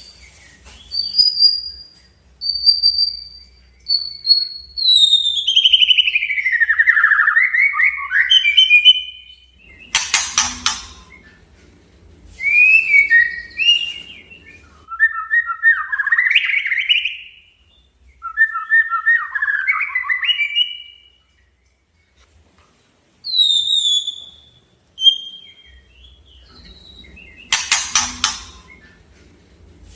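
White-rumped shama (murai batu) singing: a run of clear whistled phrases, some long sweeping down-glides and quick rising notes. Twice a short harsh rasping burst breaks in, about a third of the way through and near the end.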